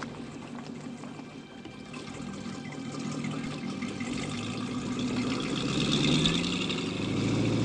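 A motorboat engine running and growing louder, its pitch rising and then levelling off near the end, with the wash of water.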